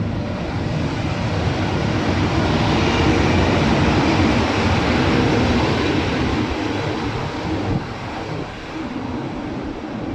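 A train running past along the station track, a rushing rumble that swells to a peak mid-way and then eases off.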